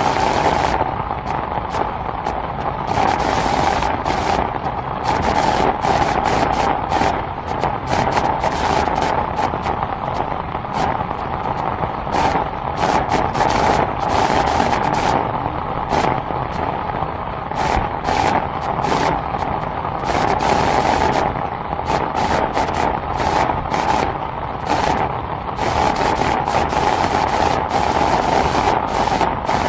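Heavy rain falling steadily, a constant hiss broken by frequent irregular sharp taps.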